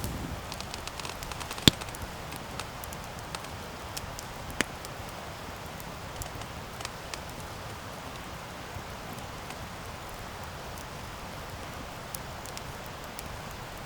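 Wood campfire burning with a steady soft hiss and scattered crackles, with one sharp pop about a second and a half in and another just under five seconds in.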